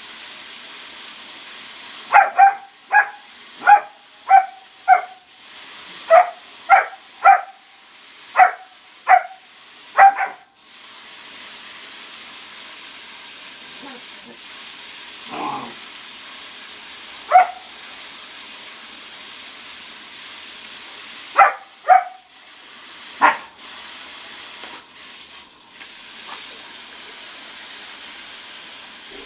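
German Shepherd puppy barking in short, high barks: a quick run of about a dozen, then a few single barks spread out later, over a steady background hiss.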